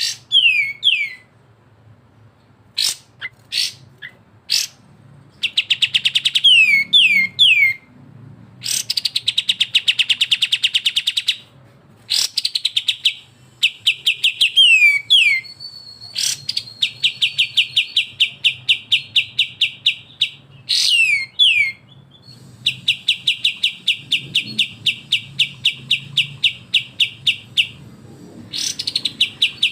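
Bulbul song from a kapas tembak and cucak jenggot (grey-cheeked bulbul) song-tutor recording: groups of three quick falling whistled notes, a few sharp single calls, and long rapid chattering trills of about a dozen notes a second that run for several seconds at a time.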